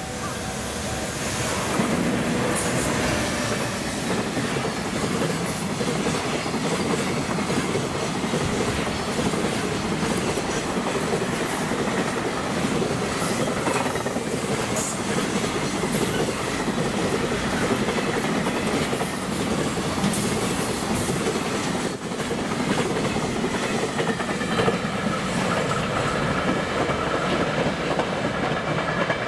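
Freight train hauled by a JR Freight EF210 electric locomotive passing close by. The sound grows over the first two seconds as the locomotive comes past, then the container wagons' wheels clatter steadily over the rail joints.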